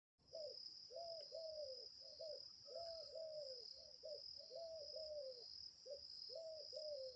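Dove cooing: a repeated phrase of low, arching coo notes, one short note followed by two longer ones, over and over. A steady high insect trill runs behind it.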